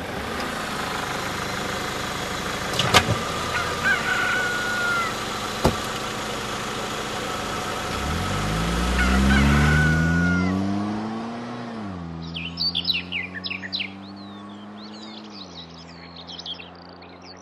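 Traffic noise with two sharp knocks, then a car engine rising in pitch for about three seconds and settling into a steady low hum that drops a step near the end. Birds chirp through the second half.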